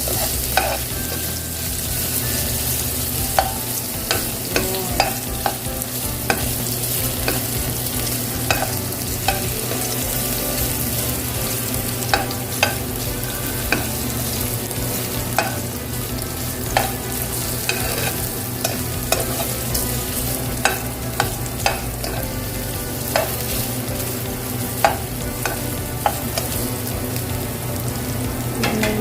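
Chopped ginger sizzling in hot olive oil in a frying pan, with a utensil clicking and scraping against the pan at irregular moments as it is stirred. A steady low hum runs underneath.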